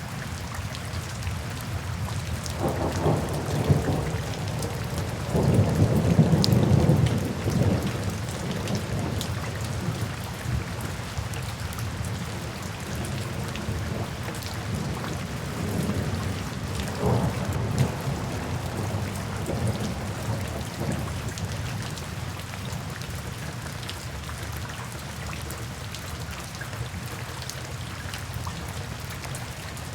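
Steady rain falling, with thunder rumbling through it: a long roll a few seconds in, loudest about six seconds in, and a weaker rumble around the middle.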